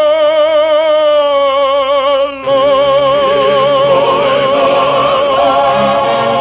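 Sung music: a voice holds a long note with wide vibrato over an orchestra. The note breaks off briefly about two and a half seconds in, and a second long held note follows over fuller accompaniment.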